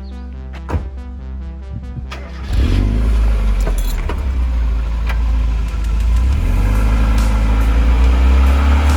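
Electronic music, then about two and a half seconds in a Mazda Miata's four-cylinder engine comes in loud through a new Cobalt cat-back exhaust, running with a low, steady exhaust note.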